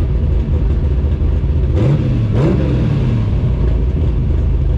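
Drag race car's engine running with a heavy low rumble, blipped up in pitch twice in quick succession about two seconds in before settling back.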